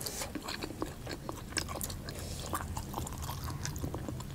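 Close-miked eating sounds: irregular chewing and wet mouth smacks of people eating pork and rice by hand, with the soft scrape of fingers mixing rice on steel plates. A steady low hum runs underneath.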